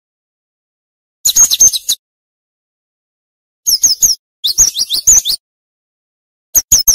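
Cinereous tit calling in four quick bursts of rapid, high chirps, with silent gaps between the bursts.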